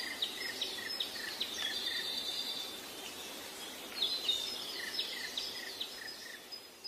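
Faint background birdsong: a bird repeating short chirps about two or three times a second, in two runs with a pause around the middle, over a thin steady high tone and light hiss.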